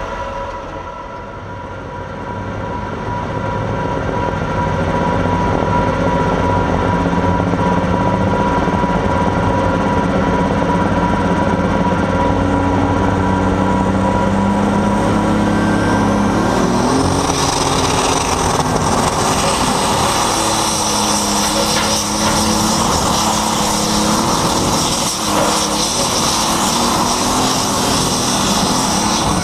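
Super stock pulling tractor's engine running at full throttle under load during a pull, growing louder over the first few seconds. About halfway through, a high hiss joins in and the engine pitch starts to waver as the load changes.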